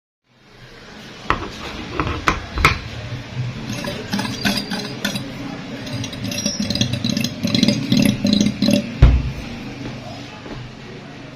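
Metal clinks, knocks and rattles from a reassembled car AC compressor being handled and turned by hand for a pressure test, over a steady low hum, with one heavy thump near the end.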